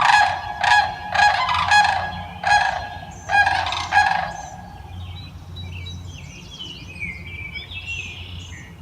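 Sandhill cranes calling: a run of loud, rolling, rattling bugle calls, about one every half second, that stops about halfway through. Faint chirps from smaller birds follow.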